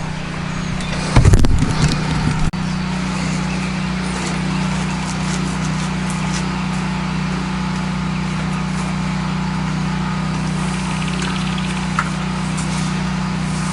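Pressure washer's engine running steadily at a constant speed, with a brief low thump or rumble about a second in; no water spraying yet.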